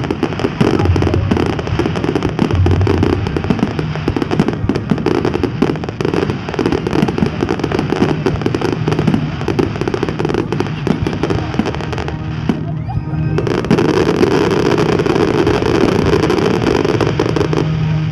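Fireworks display: a dense, continuous stream of crackling and popping bursts with bangs mixed in, briefly thinning about twelve seconds in.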